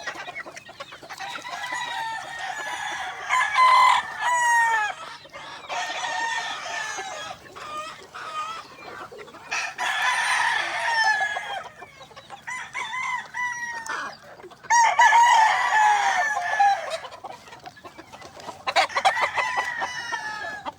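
Gamefowl roosters crowing, one crow after another and overlapping, with hens and birds clucking between the crows.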